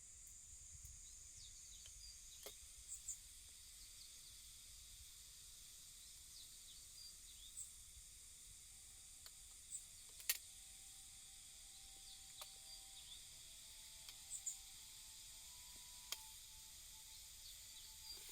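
Faint outdoor ambience: a steady high hiss with a few short bird chirps and scattered light clicks, the sharpest about ten seconds in. Faint steady tones come in about halfway through.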